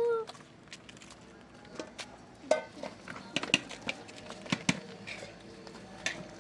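Scattered sharp knocks and clicks, several between about three and five seconds in, with a short pitched call about two and a half seconds in.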